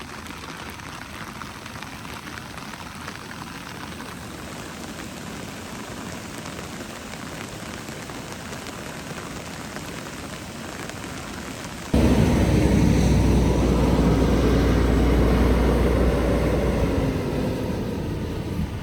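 Steady hiss of heavy rain. About twelve seconds in it cuts abruptly to a much louder low rumble with a steady drone, which eases a little near the end.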